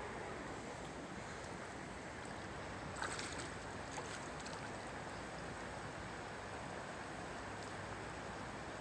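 Steady wash of water, with a brief clatter about three seconds in and a smaller tap a second later.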